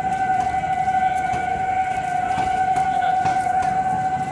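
A train of passenger coaches passing, wheels clacking over the rail joints, under one long, steady, loud high tone that stops near the end.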